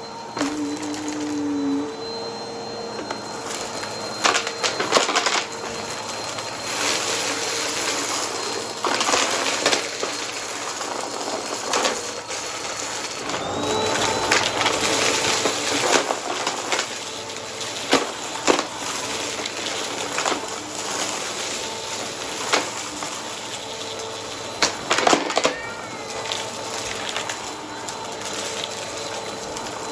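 Vacuum cleaner running with a steady motor whine, with irregular crunching and clicking as crunchy debris is sucked up through the brush roll.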